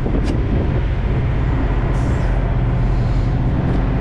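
Freightliner semi-truck's diesel engine running steadily, with a short click near the start and a brief hiss about two seconds in.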